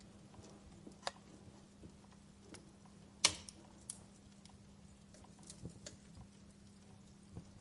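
Wood fire crackling: scattered sharp pops and snaps over a low hiss, the loudest pop a little over three seconds in. A faint steady low hum runs underneath.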